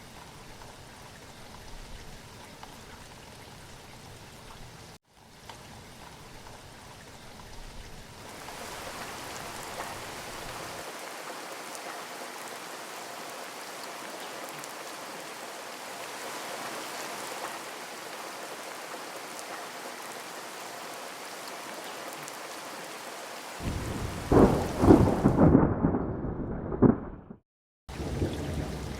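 Steady monsoon rain falling, with a loud, low rumble of thunder near the end that cuts off abruptly.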